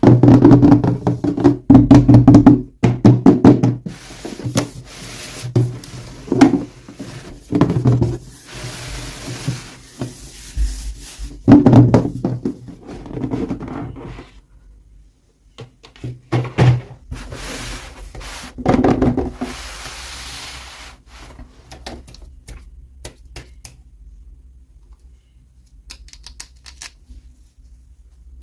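Hands unboxing toys: plastic packaging and small parts knocked, tapped and rustled, in clusters of sharp knocks with stretches of rustling, then quieter scattered ticks in the second half.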